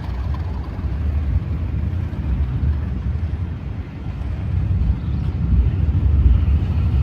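Two English Electric Class 37 diesel locomotives thrashing away under power as they pull a train out, a deep low rumble that swells about five seconds in.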